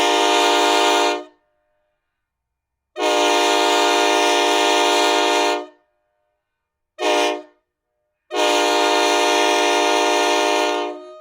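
Locomotive air horn sounding the grade-crossing signal: the tail of a long blast, then another long blast, a short one and a final long one. This long-long-short-long pattern is the standard warning of a train approaching a road crossing.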